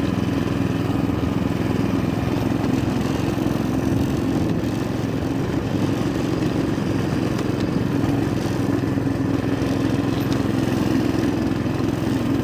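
Small single engine of a motor-dog (a compact tracked snow tractor) running steadily at an even speed.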